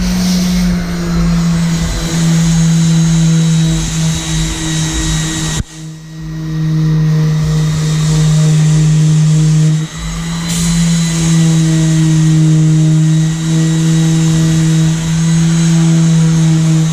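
Electric disc sander running steadily, sanding a boat hull, with a strong steady hum. It dips briefly twice, about six and ten seconds in, then picks back up.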